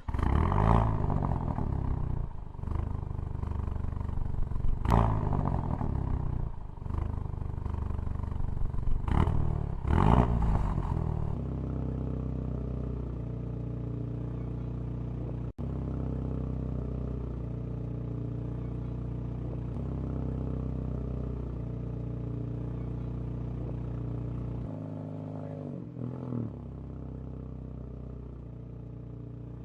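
Rally-spec Jaguar F-Type's 2.0-litre four-cylinder petrol engine revving hard in repeated surges for roughly the first ten seconds, then settling into a steady, even engine note.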